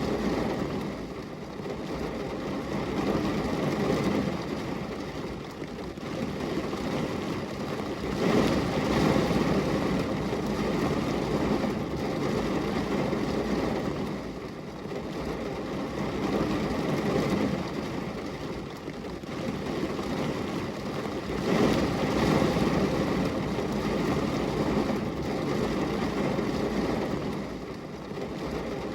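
Steady rain on a glass window pane, a dense even hiss that swells and eases every several seconds.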